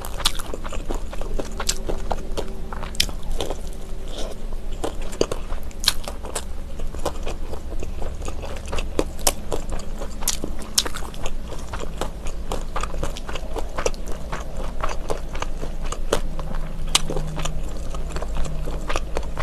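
Close-miked chewing and biting of mayak gimbap, small seaweed-wrapped rice rolls, with many sharp little clicks and wet smacks from the mouth throughout.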